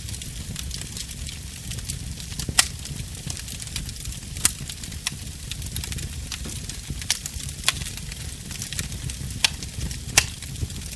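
Fire in a fireplace crackling over a steady low rumble, with about six sharp pops scattered through.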